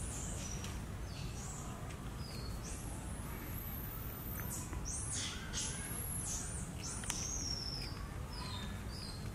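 Birds calling: a string of high, sweeping chirps and whistles, some rising and falling, over a steady low background noise.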